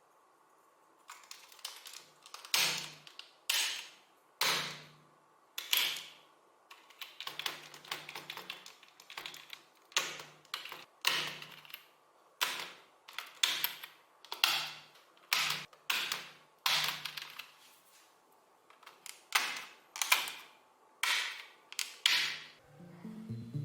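Keys of a mechanical keyboard being pressed: a run of sharp clacking keystrokes at an uneven pace, roughly one a second with a few quick clusters.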